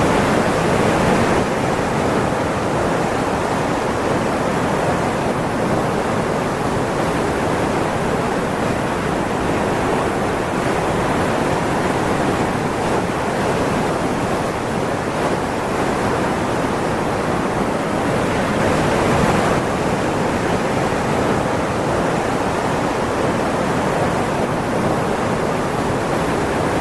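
Steady, loud rushing of water, the unbroken noise of floodwater or torrential rain, with small shifts in its tone a couple of times.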